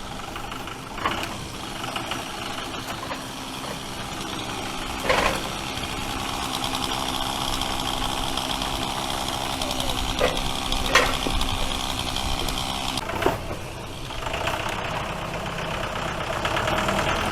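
Tractor engine running steadily, with several sharp knocks through it. The engine sound dips about thirteen seconds in, then picks up again at a different note.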